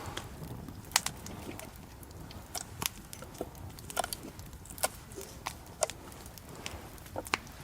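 Wood campfire crackling: irregular sharp pops and snaps over a low steady background.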